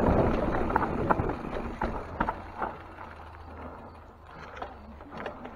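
Wind rushing over the microphone of a mountain bike rider, fading over the first few seconds as the bike slows, with scattered clicks and rattles from the bike.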